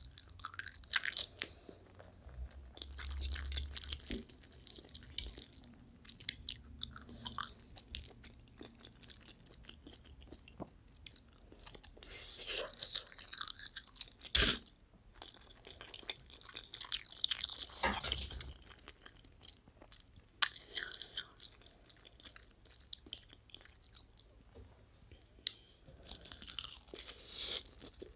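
Close-up eating sounds: wet, smacking chewing of noodles and crunchy bites, coming in irregular bursts with a few sharp clicks, one as she bites into a sausage about halfway through.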